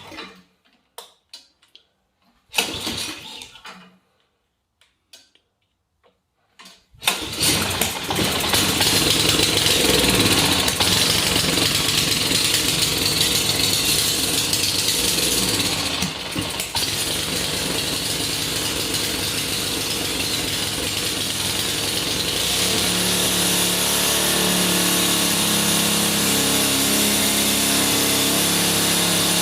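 Ariens AX 208 single-cylinder engine on a single-stage snowblower catching about seven seconds in after a few short clatters, then running steadily; its note evens out into a smoother, steadier run in the last third. It runs after a carburetor rebuild and fresh fuel line cured a no-start from stale gas.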